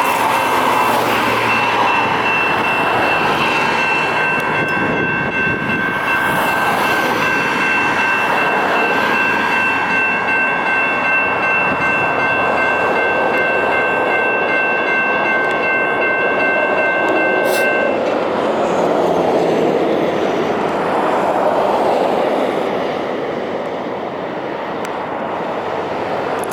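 Light rail train running, with a steady high whine of several tones over the rumble of the train. The whine cuts off suddenly about 18 seconds in, just after a sharp click, leaving the train's rumble.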